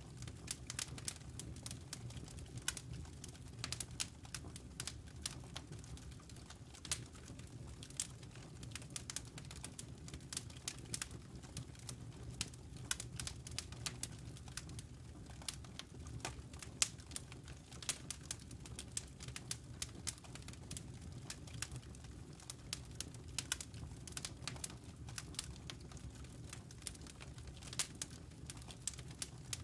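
Campfire crackling: an irregular scatter of sharp pops and snaps from burning wood and embers over a low, steady rumble.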